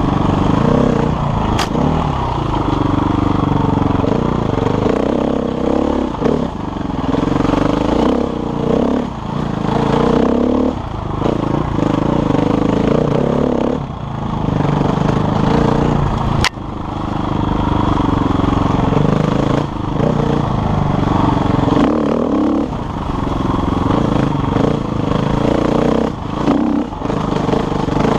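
KTM enduro motorcycle engine being ridden, the revs rising and falling again and again as the throttle opens and closes. Two sharp clicks stand out, one near the start and one about halfway through.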